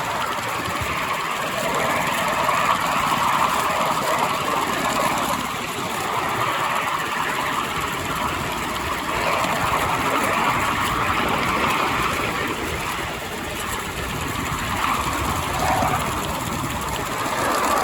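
A 5-inch-gauge miniature railway locomotive running, a steady mechanical sound with no break.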